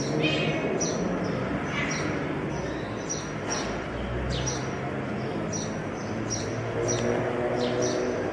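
Birds chirping over and over: short, high, falling chirps about twice a second.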